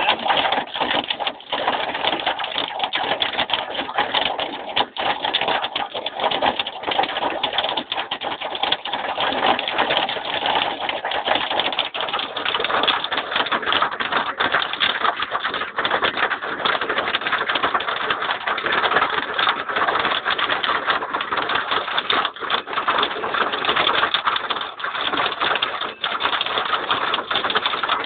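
Hail pelting down in a loud, continuous clatter of many small impacts that does not let up.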